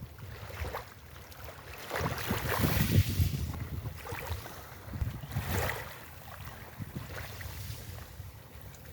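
Waves washing onto a beach, surging twice, about two and five seconds in. Wind buffets the microphone with a low rumble throughout.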